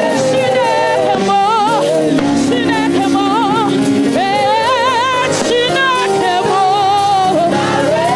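Live gospel worship music: a sung melody of long held notes with strong vibrato over steady band accompaniment.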